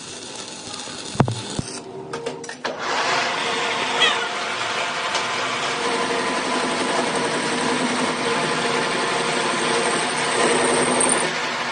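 A few clicks and a sharp knock, then an engine starts about three seconds in and keeps running steadily.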